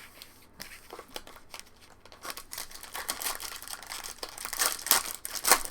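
Foil trading-card pack wrappers crinkling and tearing as packs are ripped open, with cards being handled; the rustling gets denser and louder near the end.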